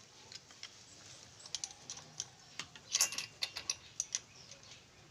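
Spark plug being tightened into a motorcycle engine with a wrench: a run of irregular, sharp metallic clicks and taps, loudest about three seconds in.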